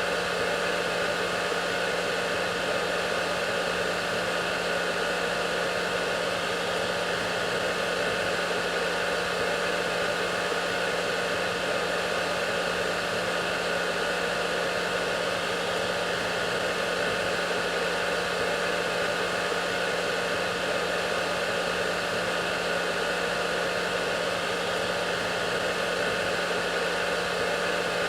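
Hair dryer running steadily: an even rush of blown air with a constant low hum and a faint steady whine, unchanging throughout.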